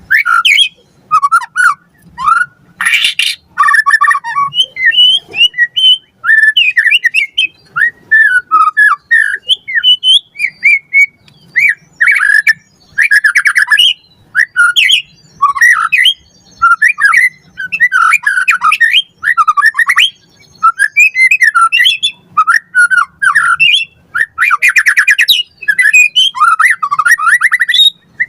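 White-rumped shama singing continuously in full song: quick, varied whistled phrases of rising and falling notes, broken by a harsh buzzing rattle about 3 s in and again near the end.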